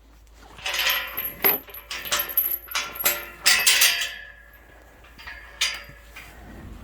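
Metal clinking and clattering: a quick, irregular run of knocks and clinks lasting about three and a half seconds, starting about half a second in, then one more knock near the end.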